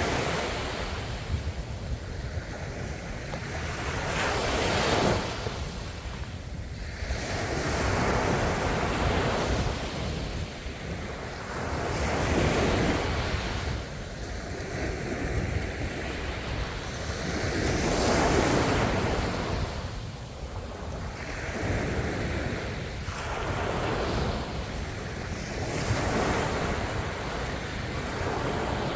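Ocean waves breaking and washing on the shore, a steady wash of surf that swells and falls back every few seconds over a constant low rumble.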